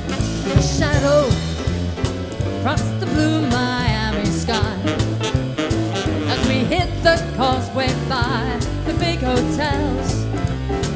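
A small jazz band plays an upbeat swing-style tune live, with a steady beat from drums and bass under piano and guitar, and a wavering lead melody on top.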